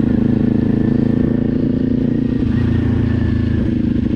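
Motorcycle engine running steadily while the bike is ridden at low speed.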